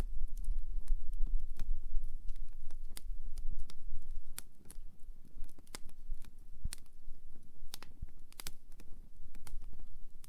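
Wood campfire burning, the logs crackling with irregular sharp pops over a low rumble of the flames.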